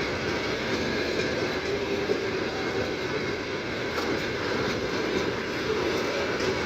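Freight train rolling past on the main line, a steady rumble of steel wheels on rails with a few faint clicks.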